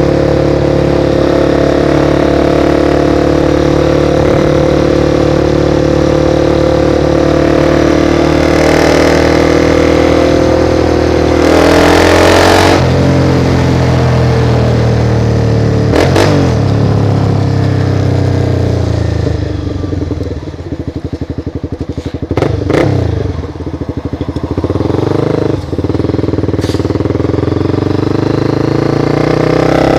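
Motorcycle engine heard from on board while riding: it runs steadily under way, changes pitch in steps about 12 and 16 seconds in, drops low for several seconds past the middle with a few sharp clicks, then picks up again near the end.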